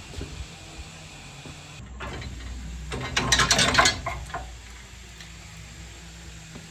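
A ratchet wrench clicking rapidly for about a second, a few seconds in, over a low hum, as it turns a bolt.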